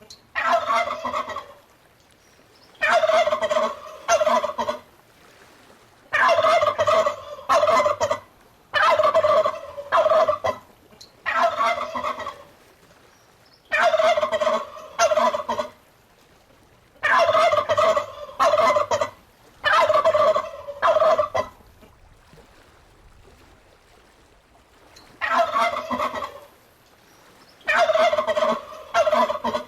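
Domestic turkey gobbling over and over: about ten rapid, warbling gobbles, each one to two seconds long, with a longer pause about two-thirds of the way through.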